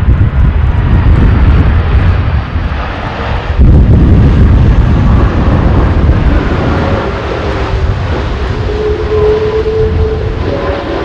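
Jet airliner engines roaring loudly as the plane comes in to land, with strong wind buffeting the microphone. The roar jumps suddenly louder about three and a half seconds in, and a faint engine whine shows through later.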